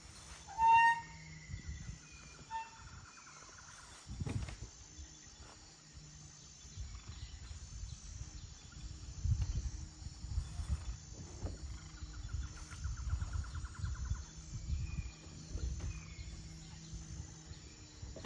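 Gusty wind buffeting the microphone with a low, uneven rumble that picks up in the second half, with a few short bird calls near the start and two quick pulsed trills.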